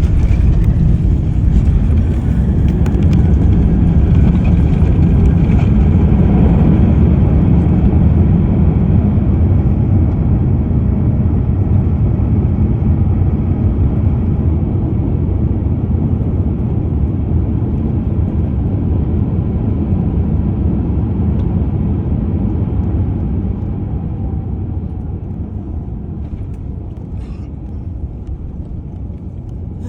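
Airliner cabin noise: a loud, low rumble of engines and airflow that slowly eases off over the second half.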